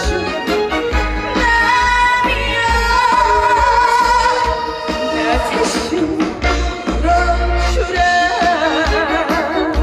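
Female trot singer singing live over band accompaniment, holding long notes with wide vibrato.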